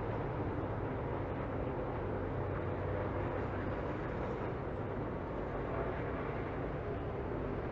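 Steady drone of NASCAR Truck Series race trucks' V8 engines running around the speedway, with no revving rises or falls.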